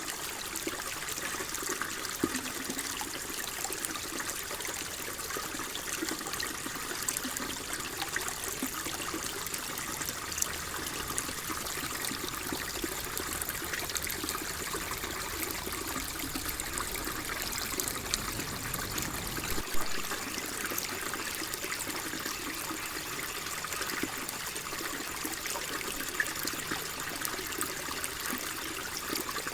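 Gently flowing water, a steady trickle with many small splashes and drips.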